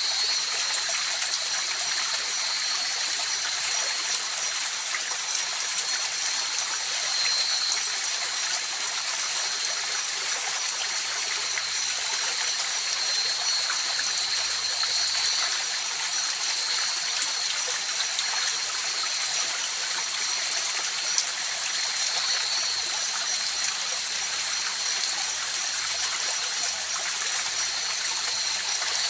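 River water flowing steadily in an unbroken rush, with a steady high-pitched tone running through it.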